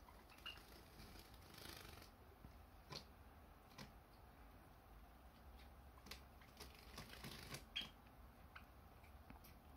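Java sparrows in a room: faint scattered light clicks and taps, with two brief high peeps, one about half a second in and one near the end.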